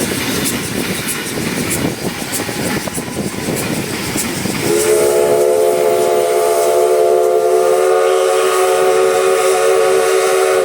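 Steam locomotive's whistle blowing one long chord of several tones, starting about halfway in and held for about six seconds. Before it, the running noise of the train.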